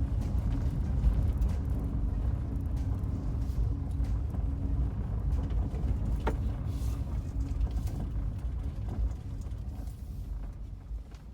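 Car running, a steady low rumble with engine hum, that fades out near the end.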